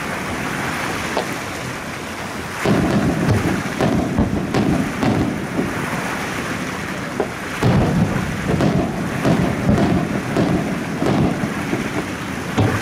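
Fireworks bursting over the sea: a continuous rolling rumble of overlapping booms with crackle. It swells about three seconds in and again from about eight seconds on.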